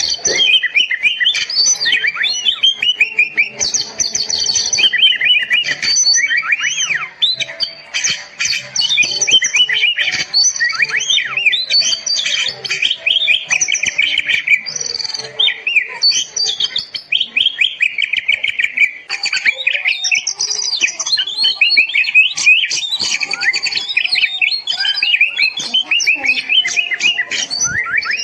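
Oriental magpie-robin (kacer) singing nonstop: a loud, fast, varied string of chirps, trills and whistled slides, with barely a pause.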